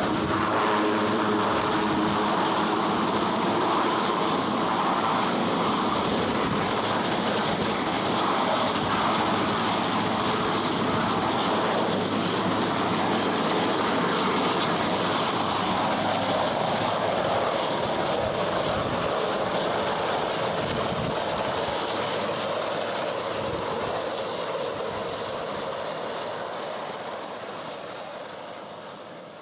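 Marine One helicopter running loud and steady with its rotor noise, then fading away over the last several seconds.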